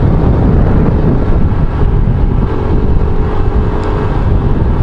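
Wind rushing over the microphone mixed with the engine of a Yamaha YBR 125 G, a single-cylinder 125 cc four-stroke motorcycle, running steadily while riding along the road.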